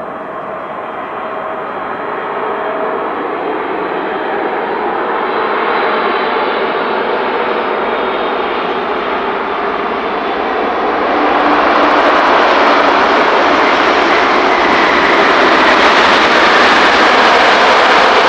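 Boeing 747-8 freighter's four GEnx turbofan engines on arrival, a steady jet roar that grows louder and brighter as the aircraft approaches, with a clear step up in loudness about eleven seconds in.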